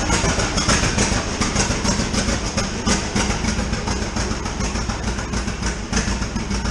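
Two-cylinder John Deere Model A tractor engine running steadily with an even, rapid firing beat, shortly after a choked start.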